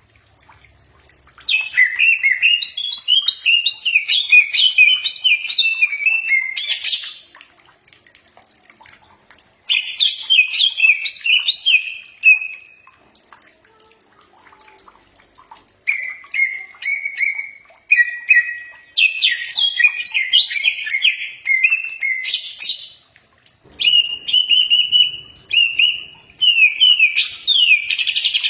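Cucak ijo (green leafbird) singing: bouts of rapid, varied chirping and whistled notes, several seconds each, with short pauses between them.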